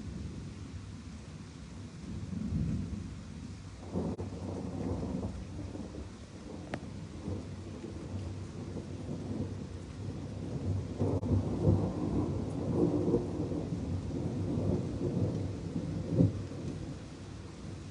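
Thunder rumbling over steady rain. One roll begins sharply about four seconds in, and a longer rolling peal runs from about eleven to sixteen seconds.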